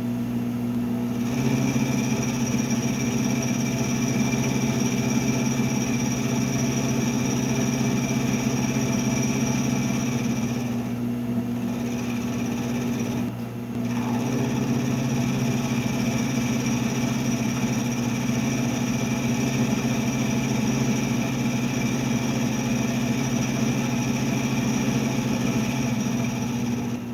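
Milling machine running steadily while side-milling metal parts at 30 thou a pass: a steady low hum with a high whine over it. The whine drops out briefly twice, about 11 and about 13 seconds in.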